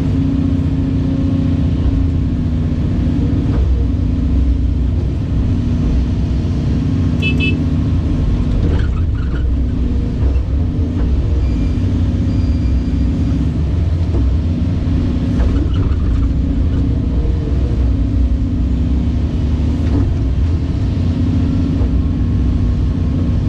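Caterpillar 349E excavator's diesel engine running steadily, a heavy, even low drone. A brief high beep sounds about seven seconds in.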